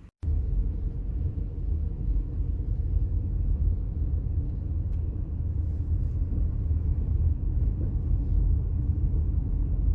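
Subaru Forester SUV driving: a steady low rumble of tyres and drivetrain.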